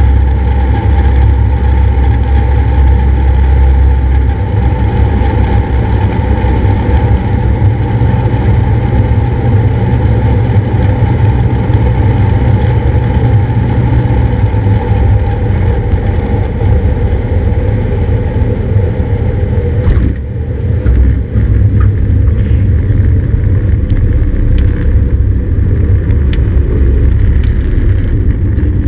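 The piston engine and propeller of a Cessna 172 running with a steady, loud drone, with a brief dip in level about two-thirds of the way through.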